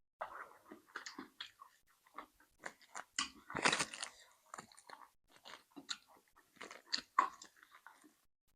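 A person chewing and crunching food, with irregular wet and crisp mouth sounds and a louder burst of crunching about three and a half seconds in.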